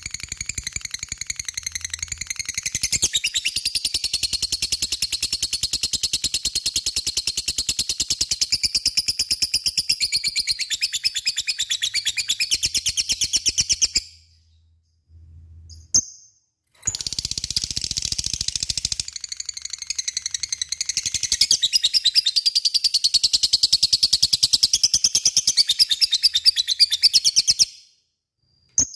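Lovebird giving a long, fast, high-pitched chattering trill (the "ngekek" call). It comes in two long bouts, broken by a short pause near the middle, and stops just before the end.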